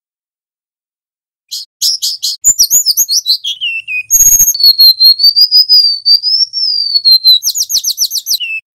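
Golden-bellied gerygone (remetuk laut) singing: a run of quick, high, thin notes, a falling glide, then a long wavering whistle, another quick run and a short lower closing note. A brief crackle comes about halfway through.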